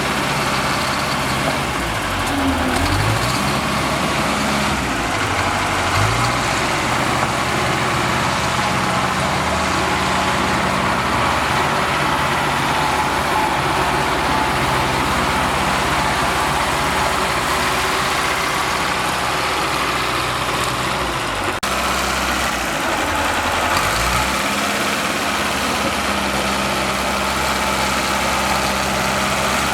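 Diesel bulldozer engine running, its pitch dropping and climbing back a few times as it takes and sheds load while pushing sand, with a steady mechanical din from the machine over it.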